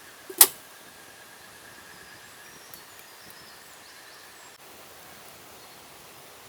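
A single sharp knock about half a second in, over a steady outdoor hiss of forest ambience. A faint, steady high tone runs through the first couple of seconds.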